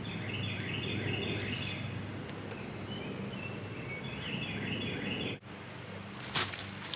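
Outdoor ambience: rows of short, repeated high chirps over a steady low hum. The sound drops off abruptly about five seconds in, and a brief sharp high noise follows near the end.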